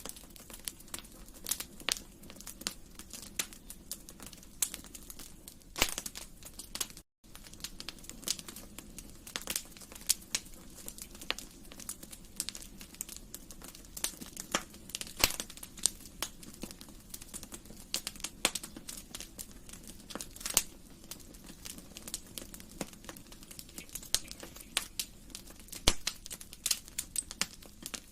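Wood fire crackling, with irregular sharp pops and snaps over a low steady rumble of the flames. The sound cuts out completely for a split second about seven seconds in.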